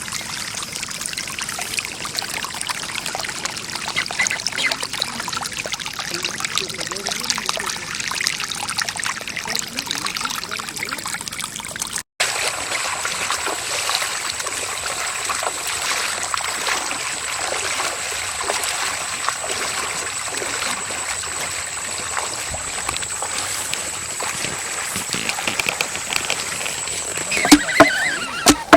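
Moving water trickling and splashing, heard as a steady crackly wash of water noise. It breaks off abruptly about twelve seconds in and resumes, and after the break a faint, steady high-pitched whine runs beneath it.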